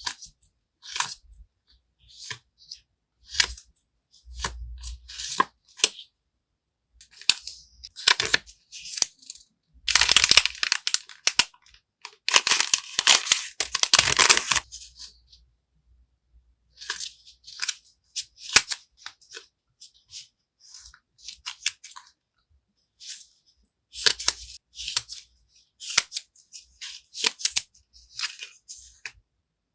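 Stationery packaging being handled and opened: scattered light taps and rustles, with a longer, louder stretch of rustling about ten to fifteen seconds in.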